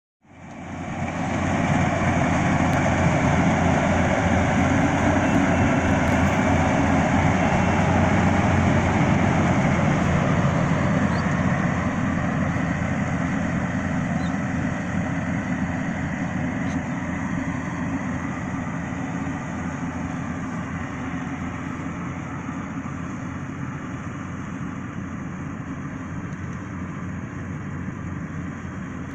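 Yanmar rice combine harvester running steadily with a dense mechanical drone. It fades in over the first second or two and grows slowly quieter from about halfway on.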